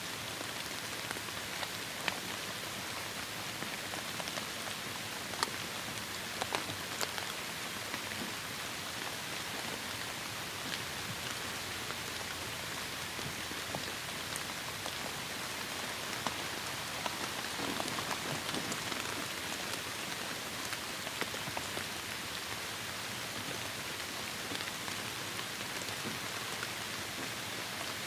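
Heavy rain falling steadily, a dense hiss with scattered individual drops tapping sharply on surfaces.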